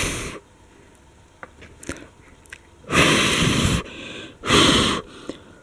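A person blowing hard on a small toy winder to spin it: three puffs of breath, one at the start, one about three seconds in and one about four and a half seconds in, with a few faint clicks between.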